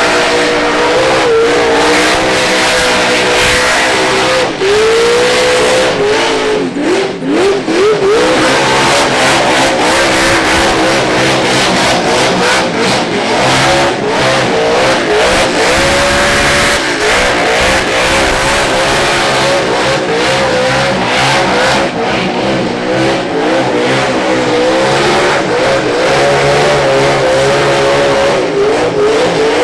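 Drift car engine revving hard, its pitch climbing and dropping with quick throttle blips, over a steady rush of noise.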